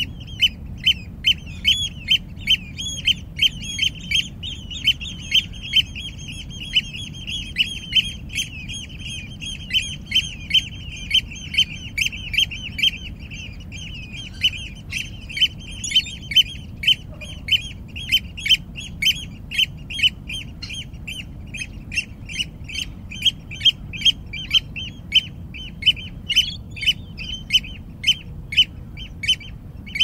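A bird calling over and over in short squawks, about two a second, at a fairly steady pitch, over a low steady background rumble.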